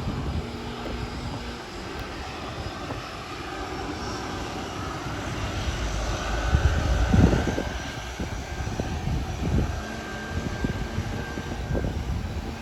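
Jet airliner engines running, a steady rush with a faint whine that swells to its loudest about halfway through, then eases.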